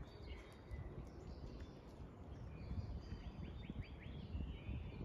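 Small birds chirping, with a quick run of short falling chirps about three seconds in, over an uneven low rumbling noise.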